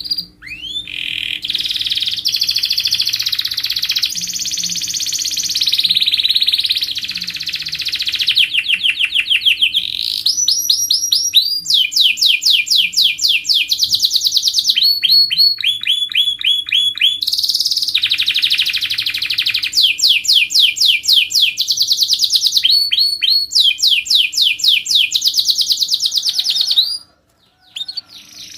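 Domestic canary singing a long, continuous song of rolling trills and fast runs of repeated notes, switching phrase every second or two, with a brief break near the end. A faint steady hum lies underneath.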